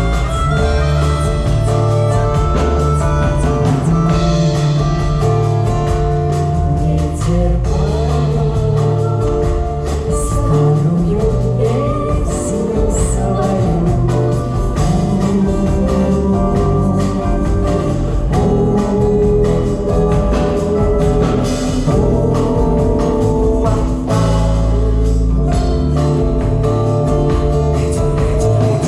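A band playing a song with singing, with steady bass and guitar throughout.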